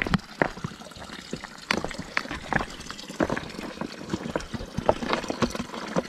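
Water trickling and splashing, with many small irregular splashes.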